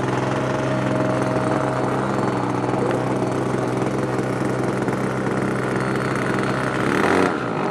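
Steady motor drone with a low, even hum and a hiss over it; near the end the hiss swells briefly and then the upper part drops away.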